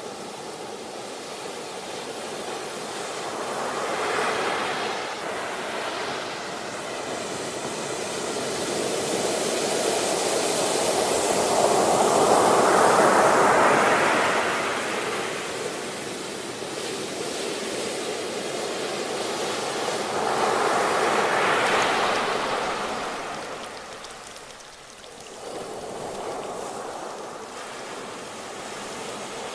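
Ocean waves breaking and washing ashore, swelling and fading in three surges, the largest near the middle.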